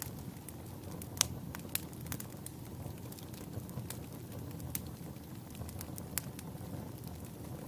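Wood fire burning in a fireplace: a steady low rumble of flames with irregular sharp crackles and pops from the burning logs. The loudest pop comes about a second in.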